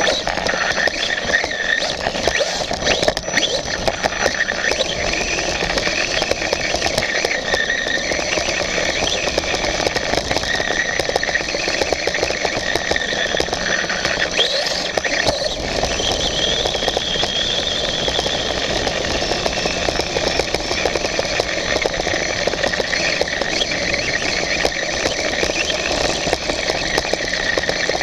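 Radio-controlled motorbike running, heard from a camera mounted on the bike: a high whine from its drivetrain that drifts up and down in pitch as the speed changes, over a steady rushing noise.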